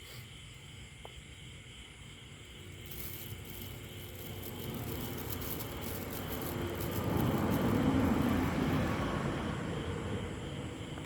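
A vehicle passing by: a broad rushing noise that swells, is loudest about eight seconds in, then fades.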